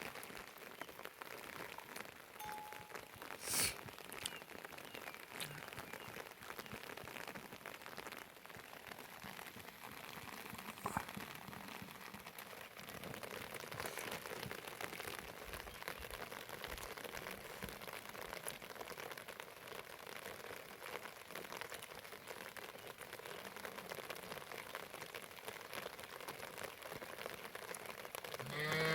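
Steady rain falling, an even patter, with a couple of sharp taps about 3.5 and 11 seconds in.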